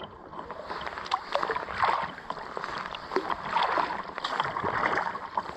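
Kayak paddle strokes: the blades dip and pull through the water in repeated swishing splashes, about a second apart.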